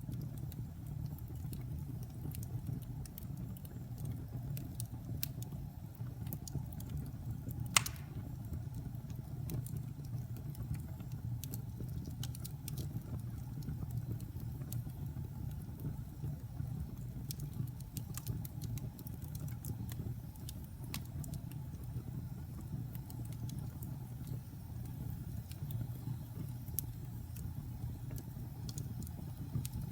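Wood fire burning in a fireplace, crackling with scattered sharp pops over a steady low rumble; one louder pop about eight seconds in.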